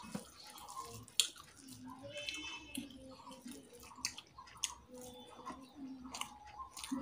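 Chewing and wet mouth clicks of a person eating rice and chicken curry by hand, with scattered sharp clicks throughout.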